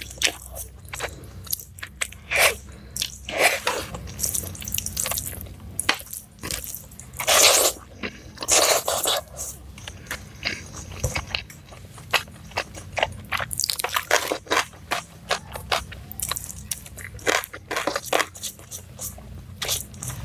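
Close-miked chewing: irregular crunching and wet clicking mouth sounds of someone eating rice and meat by hand, with a few louder crunches.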